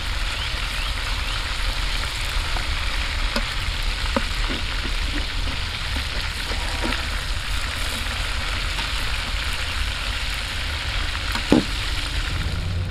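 Chicken wings frying in hot oil, a steady dense sizzle, with a few light knocks and one sharper knock near the end.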